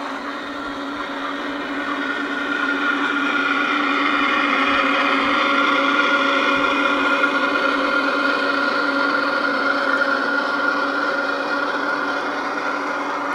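Electric motor and gearing of a garden-scale model locomotive whining steadily as it runs, growing louder until about the middle and easing off slightly toward the end.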